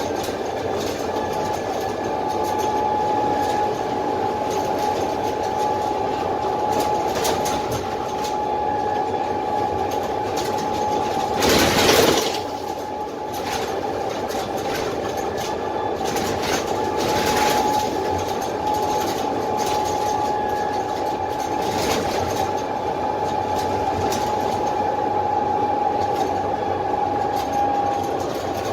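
Inside the lower deck of a Dennis Trident double-decker bus under way, its Cummins ISMe diesel and Voith automatic gearbox running with a steady high whine over road noise. Scattered rattles and knocks, with one louder rush of noise about twelve seconds in.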